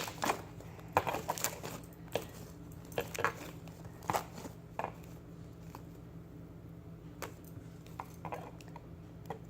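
Homemade slime being squeezed and poked by hand, making irregular short clicks and pops, more of them in the first few seconds.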